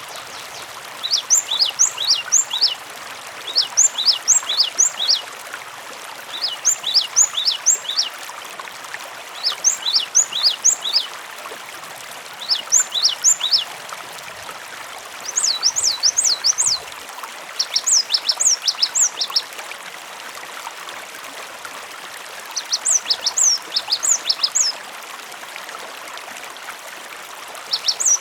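Gelatik batu (cinereous tit) singing in short phrases of quick, high chirps, repeated every two to three seconds with a couple of longer pauses later on, over a steady rush of running water.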